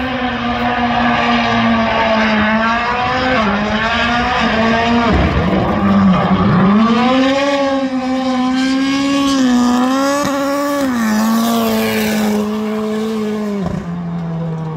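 Subaru WRX STI with about 850 horsepower at the wheels, driven hard in a drifting run, its engine held high in the revs with a steady strong note. The note dips sharply twice around the middle, and drops to a lower pitch near the end.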